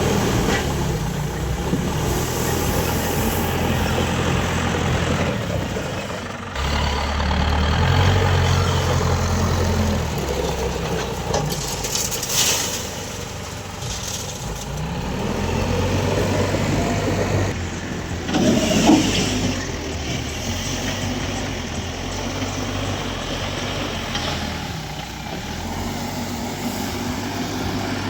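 Diesel engines of a backhoe loader and tractor running under load, the engine note rising and falling as they rev. Short hissing bursts come about a third of the way in and again about two-thirds through.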